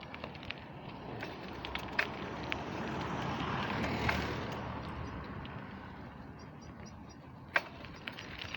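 A road vehicle passing: a broad rush that builds to a peak about four seconds in and then fades away. Sharp clicks are scattered through it, the loudest one near the end.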